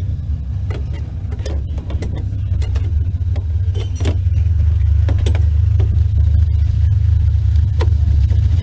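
Low, steady vehicle rumble that grows louder a few seconds in, with scattered knocks and rattles.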